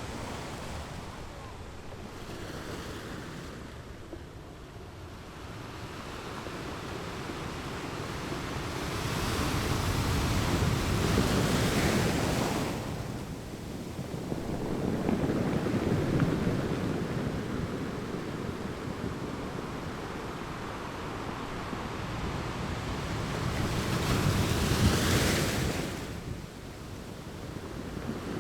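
Ocean waves, a rushing noise that swells and subsides in slow surges, with the loudest surges about a third of the way in, around the middle and near the end.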